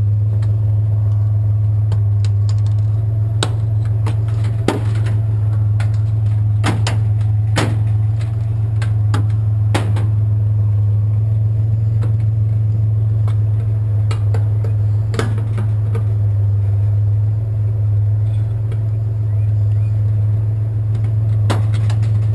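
Truck engine idling with a steady low drone, with scattered sharp clicks and knocks on top, about a dozen over the stretch.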